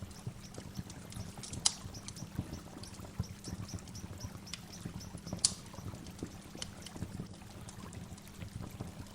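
Waterfall: water pouring and splashing steadily, with many small clicks and short high chirps of birdsong over it. Two louder sharp sounds stand out, at about 2 and 5.5 seconds in.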